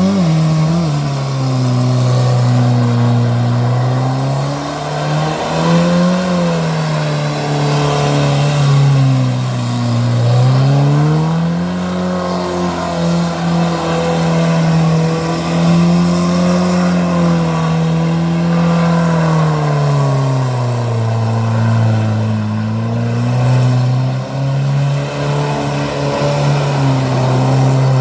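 Suzuki Escudo's engine revving hard in second gear while doing skids, the revs climbing at the start and then swinging up and down every few seconds.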